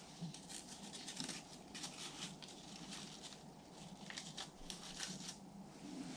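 Faint crinkling and crackling of newspaper in a wood stove's firebox: a run of small irregular clicks and rustles.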